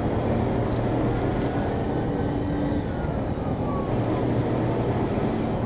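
Patrol car driving at speed, heard from inside the cabin: a steady drone of engine and road noise with a low hum.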